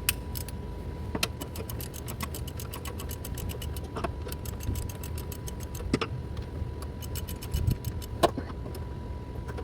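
Ratchet handle clicking in quick runs as a 17 mm deep socket on an extension turns the transmission support mounting bolts, with a few louder metallic clinks, over a steady low hum.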